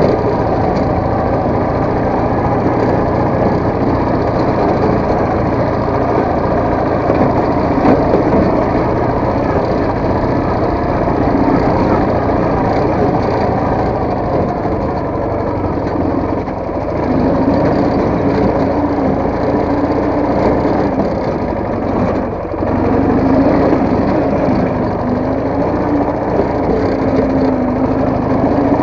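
Motorcycle engine running while riding, its pitch wavering with the throttle and easing off briefly about midway and again later.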